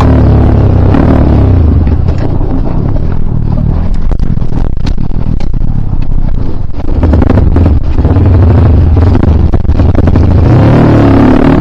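Kawasaki KLX dirt bike's single-cylinder engine running loud and close while riding an enduro trail, with knocks and clatter over the rough ground. The revs climb again near the end.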